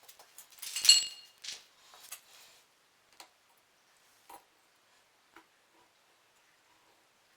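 Small metal parts being handled: a sharp metallic clink that rings briefly about a second in, a few softer knocks just after it, then scattered single light clicks.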